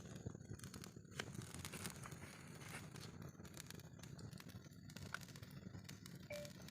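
Wood campfire crackling faintly, with irregular sharp pops over a low steady rush.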